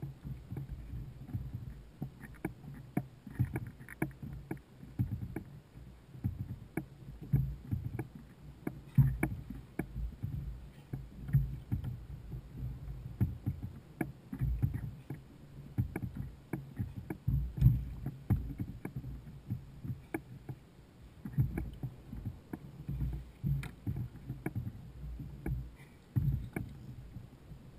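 A fishing kayak on the water: irregular low thumps and knocks against the hull, with scattered sharp clicks.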